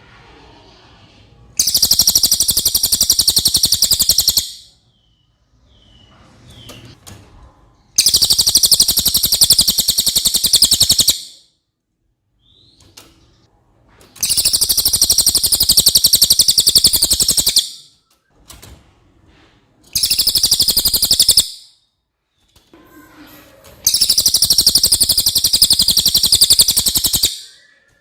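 Cililin bird singing: five long, very high, rapid trills, each lasting two to four seconds, with short pauses between them.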